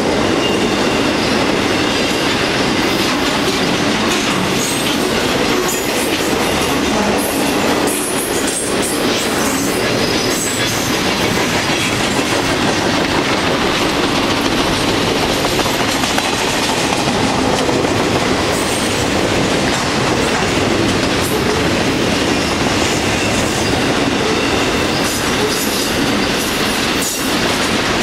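Double-stack intermodal container train of well cars rolling past close by: a steady rumble of steel wheels on rail, with scattered clacks as the wheels cross rail joints.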